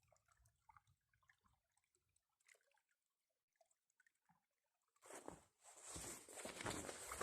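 Faint scattered drips and ticks near silence. About five seconds in, footsteps start, close and crunching, in winter snow.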